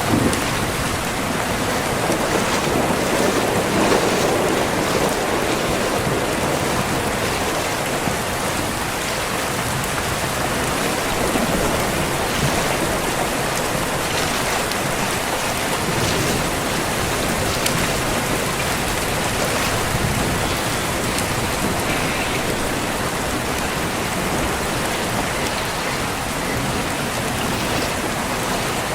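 Heavy rain falling steadily on surfaces.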